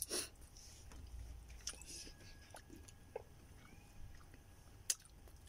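Faint chewing while eating, with a few short sharp clicks scattered through it, the sharpest just under five seconds in.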